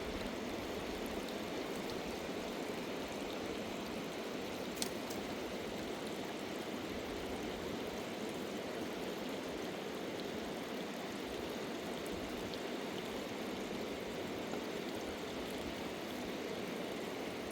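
Rushing river water: a steady, unbroken torrent. A single brief click sounds about five seconds in.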